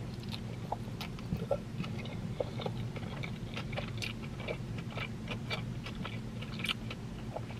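A person chewing a mouthful of pulled pork cheeseburger close to the microphone, with many small wet mouth clicks and smacks.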